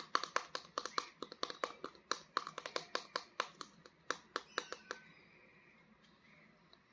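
Rapid, irregular crackling clicks of a toy action figure and its packaging being handled, stopping about five seconds in.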